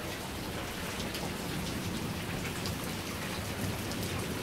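Steady rain falling at the tail end of a hailstorm that is slowing down, an even hiss with scattered sharp ticks.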